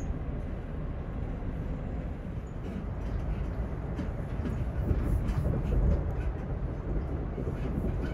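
Passenger train running along the track, heard from inside the carriage: a steady low rumble with a few faint wheel clicks over the rails, growing a little louder about five seconds in.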